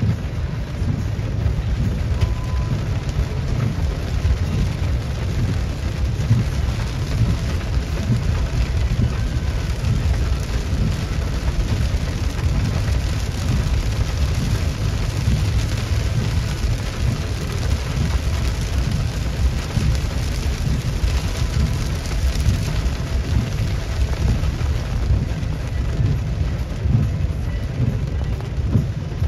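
Heavy rain pouring steadily in a thunderstorm, with a continuous low rumble beneath it.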